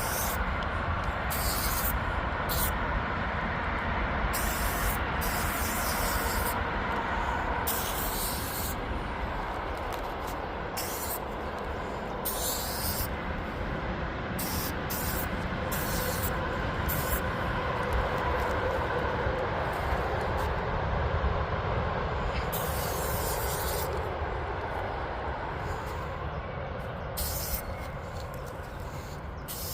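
Aerosol spray-paint can sprayed in many short, uneven bursts of hiss, over a steady low rumble.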